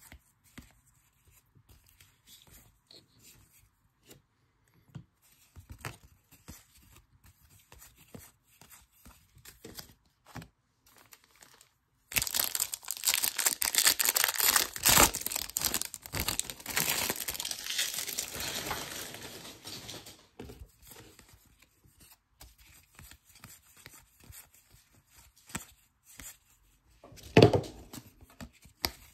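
Wrapper of a trading-card pack being torn open and crinkled: several seconds of dense, loud crackling a little under halfway through, with light card handling before and after and one short loud crinkle near the end.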